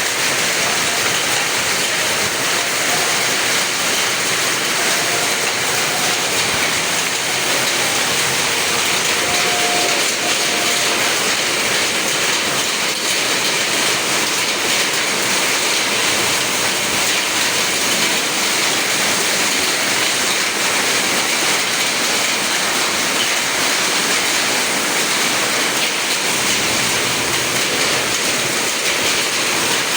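Heavy downpour driven by strong wind during a hailstorm, a loud, steady, unbroken roar.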